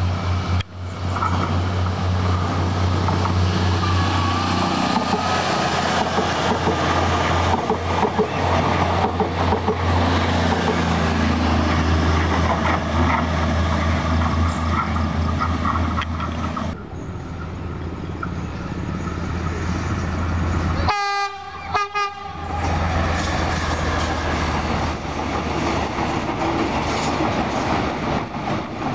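Indonesian diesel trains passing close to the track in several short takes: a steady low engine rumble and wheels clattering over the rail joints, with a horn sounding. The sound changes abruptly at the edits between trains.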